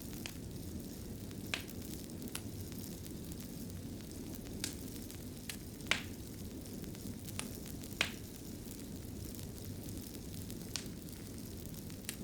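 Wood fire burning in a fireplace: a steady low rush of flames with sharp crackles and pops scattered irregularly, the strongest about a second and a half, six and eight seconds in.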